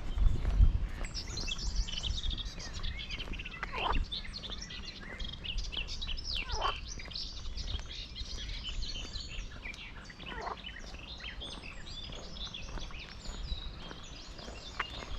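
Many small birds chirping and singing at once, with a few longer calls that sweep down in pitch. A low rumble runs underneath and is loudest near the start.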